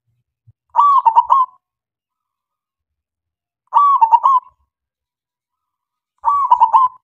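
Male zebra dove (perkutut) singing: three short cooing phrases of a few quick notes each, about three seconds apart.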